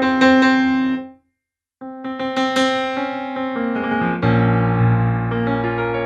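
Nord Stage 3 stage piano playing sampled acoustic grand piano sounds: notes of the Velvet Grand patch ring and die away about a second in, and after a short silence the Silver Grand patch begins with a melody, low bass notes joining around two-thirds of the way through.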